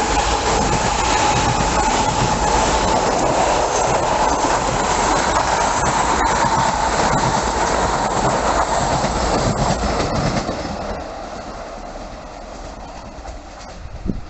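Passenger multiple-unit train passing at speed: a loud, steady rushing of wheels on rails. It dies away after about ten seconds as the last car goes by.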